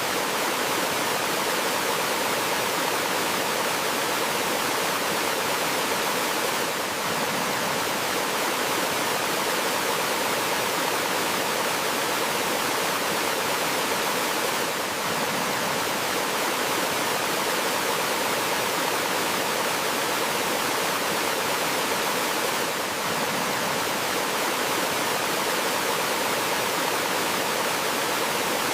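Small forest waterfall and stream flowing steadily, an even rushing of water with no breaks.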